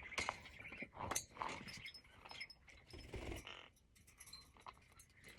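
Light clinks and knocks of a metal bird cage's parts being handled as the cage is put together, with the wheels just pushed into their sockets.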